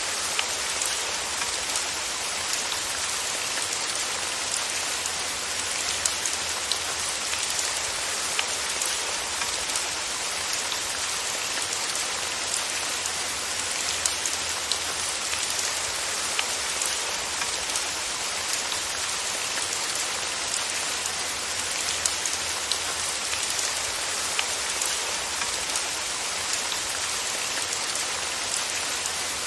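Steady rain falling on a surface, an even hiss flecked with many small scattered drop ticks.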